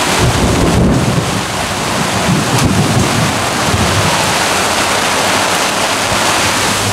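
Heavy squall rain falling on a catamaran's cabin windows and deck, with low rumbles of thunder in the first few seconds.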